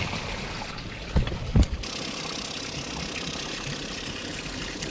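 A steady mechanical hum like a small motor running, with two short low thumps about a second in.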